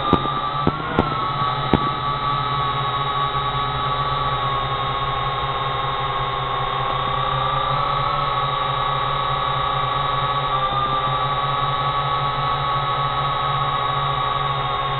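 Drone propellers and motors hum steadily with a high whine that wavers slightly in pitch. Three or four sharp firework pops sound in the first two seconds.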